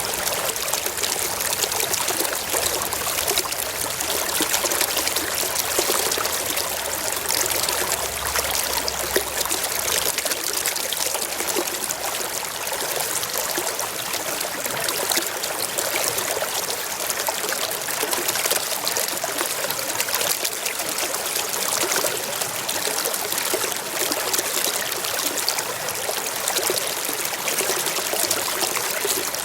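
Forest stream flowing and trickling over rocks, a steady splashing rush with no pauses.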